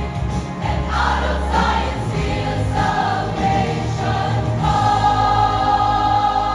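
Choir singing a gospel song with accompaniment, settling about two-thirds of the way in onto a long held chord.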